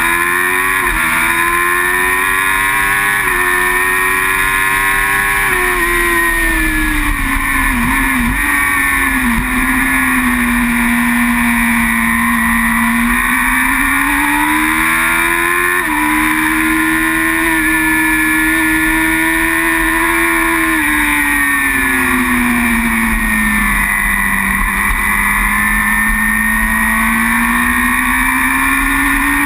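Superbike engine heard from onboard at racing speed. The revs rise and fall slowly with the throttle through corners, with a few sudden jumps in pitch at gear changes, over a constant rush of wind.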